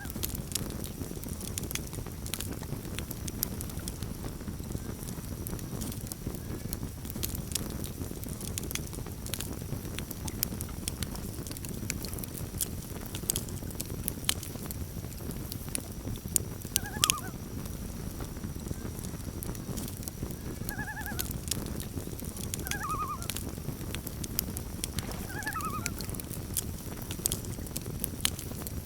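Campfire burning with a steady low rush and frequent sharp crackles and pops. In the second half, about four short, wavering calls from common loons carry over the fire.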